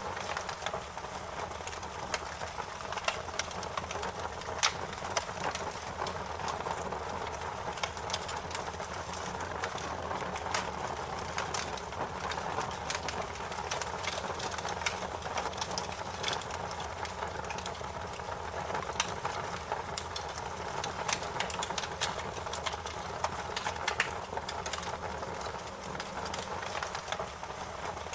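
Wood fire crackling: irregular sharp pops and snaps, several every second, over a steady hiss and low rumble of burning.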